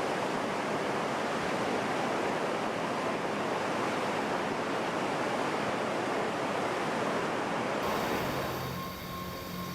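Water rushing steadily through opened floodgates, flooding the dock to float the ship. About eight seconds in it cuts off abruptly to a quieter, steady machinery hum with a few faint held tones.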